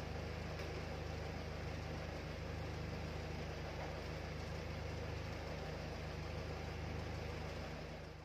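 Proton Wira 1.5's engine idling steadily, a low, even hum, while the car's A/C is charged with R134a. The hum fades out near the end.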